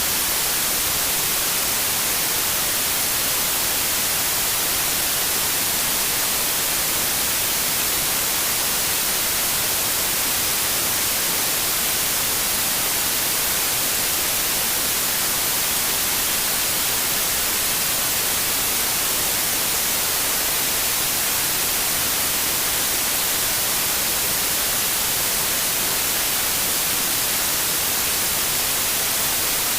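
Steady white noise: an even hiss that is brightest in the high treble and does not change.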